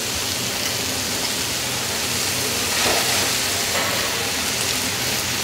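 Steady sizzling of vegetables frying in hot oil in a pan as boiled rice is tipped in from a metal colander and scraped out with a spatula, swelling slightly about three seconds in.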